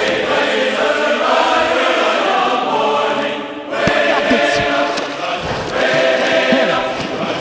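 Choral music: voices singing held chords, easing off briefly about halfway through before swelling again.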